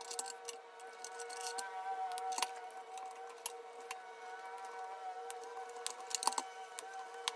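Light clicks and taps of plastic toy-truck wheels and press-on metal hubcaps being handled and pushed onto the axles by hand, with sharper clicks about two and a half seconds in and again near the end.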